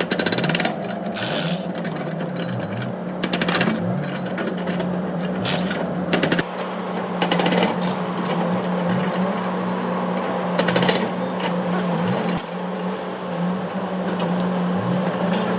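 A power tool hammering on metal in short bursts of rapid strikes, about five bursts, over a steady low hum.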